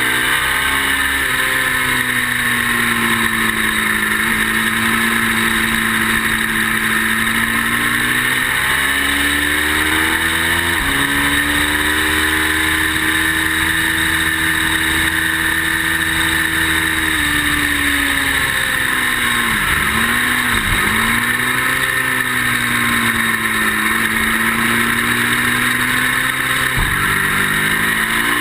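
Ducati motorcycle's V-twin engine running hard around a track: the pitch climbs through the gears with sudden drops at each upshift, and about two-thirds through it falls away with quick blips on the downshifts before pulling up again. A steady rush of noise sits under it. The owner says the bike was not running great.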